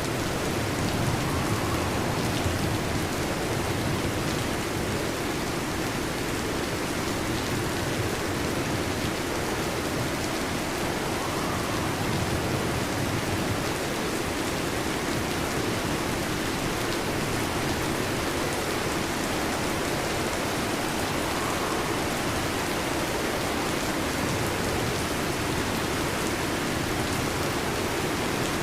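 Heavy rain falling steadily, an even hiss with no distinct thunderclap.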